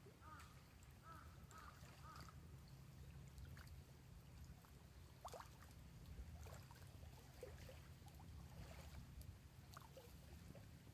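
Faint outdoor ambience: a bird calls in a quick series of short arched notes for the first two seconds, then gives scattered faint chirps over a steady low rumble.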